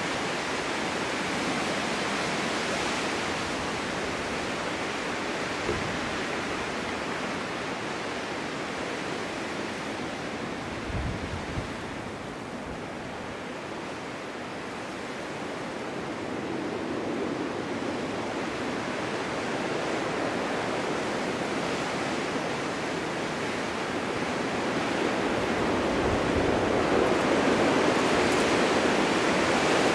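Winter wind blowing snow, a steady hiss that swells and eases, with a few brief low thumps of gusts on the microphone and growing louder near the end.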